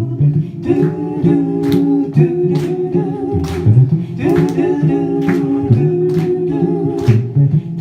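A cappella group singing an introduction: sustained vocal chords over a sung bass line, with regular sharp beats that sound like vocal percussion.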